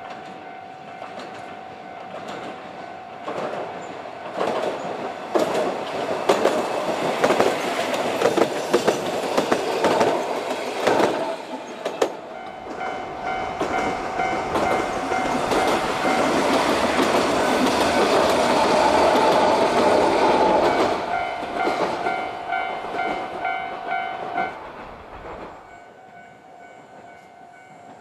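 A narrow-gauge (762 mm) electric train passing, its wheels clacking over the rail joints, with the loudest pass about two-thirds of the way in before it fades. A Japanese level-crossing alarm rings over it with steady repeated tones, most plainly in the second half.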